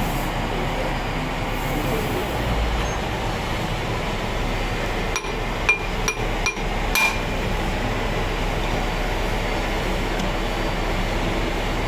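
A hammer strikes metal about five times in quick succession near the middle, each strike a sharp, ringing clink, over a steady background noise.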